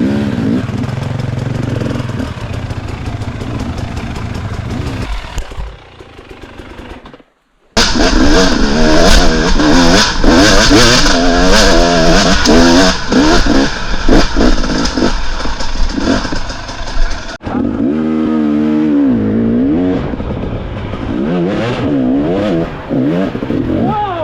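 Dirt bike engines revving up and down through the gears as the bikes ride a motocross track, in several cut-together clips. There is a brief drop to silence about seven seconds in, followed by the loudest, closest stretch of revving, and then an abrupt change of clip near the middle.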